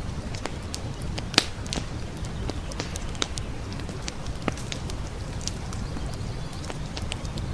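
Wood campfire crackling with irregular sharp pops, the loudest about a second and a half in, over the steady low rush of a flowing brook.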